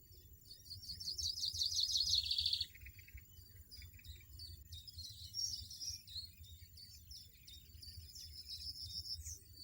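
European goldfinch singing: a fast, bright twittering trill for about two seconds near the start, then scattered quick tinkling notes, over a faint low rumble.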